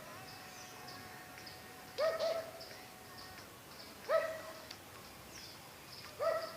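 An animal call repeated three times, about every two seconds: short, pitched calls that rise briefly at the start, with faint high chirping behind them.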